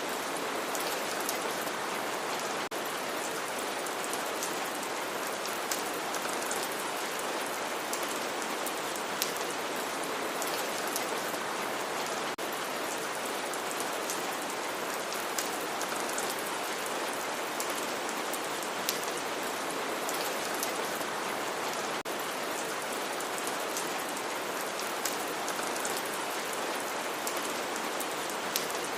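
Steady heavy rain falling on a surface, a dense even hiss with many individual drops ticking through it.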